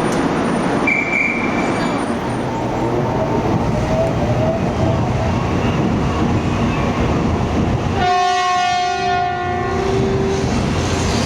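Tokaido Shinkansen bullet train running through a station with a faint rising motor whine. About eight seconds in, its horn sounds for about two seconds as a chord of several steady tones, the lowest tone holding on a moment longer, and then the running noise returns.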